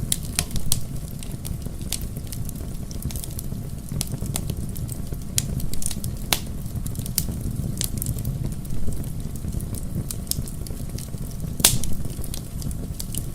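Wood bonfire burning: a steady low rumble of flames with frequent sharp crackles and pops from the burning logs, one louder pop near the end.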